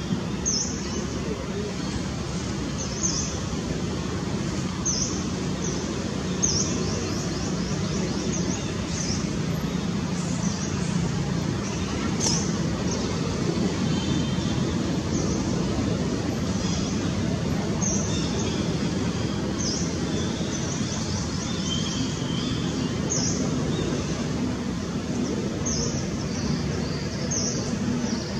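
A bird calling repeatedly, a short high note sliding down, every second or two, over a steady low rumble.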